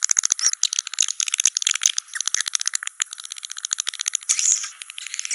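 Swiftlet calls of the kind played as a lure in a swiftlet house: fast trains of dry clicks and chattering chirps, many a second, with brief pauses about two and three seconds in.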